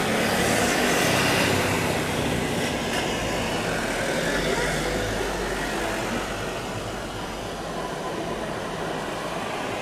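Jet noise from a departing Airbus A350-900 airliner: a dense, even roar that slowly fades.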